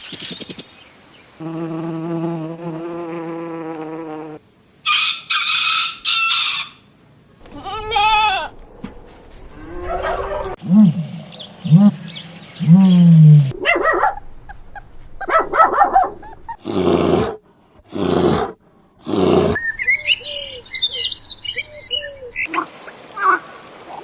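A string of short, different animal calls cut one after another, each starting and stopping abruptly. It opens with a steady pitched drone of about three seconds, then moves through high calls and deeper cries that slide up and down in pitch.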